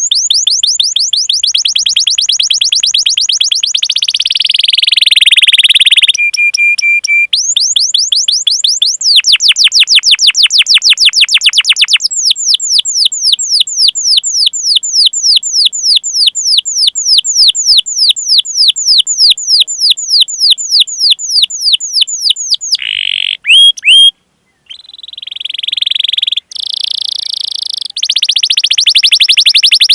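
Domestic canary singing long rolls of repeated falling whistled notes, the 'cuit cuit' calls used to prompt other canaries to sing. The trills run fast at first, slow to about four notes a second in the middle, and break off briefly near the end before picking up again.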